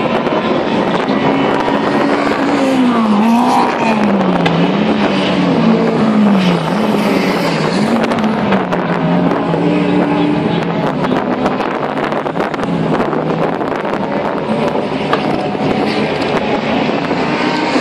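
Drift car engine revved up and down over and over while the car stands still, the note rising and falling several times in the first half, then holding steadier, over crowd noise.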